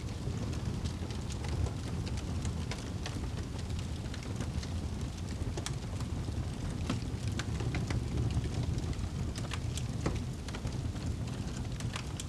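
Campfire crackling, with irregular sharp pops and snaps scattered through, over a low steady rumble.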